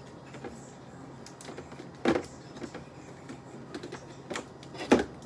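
Containers and bottles being handled and set down, with light clicks and two louder knocks, one about two seconds in and one near the end.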